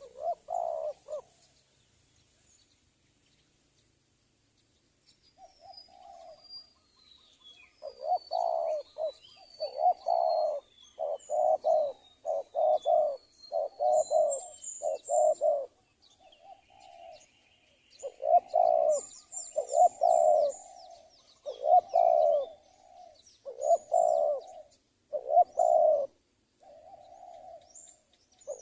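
Spotted doves cooing: runs of low, rhythmic coo notes, one phrase after another, with a pause in the middle. Small birds chirp and trill thinly in the background.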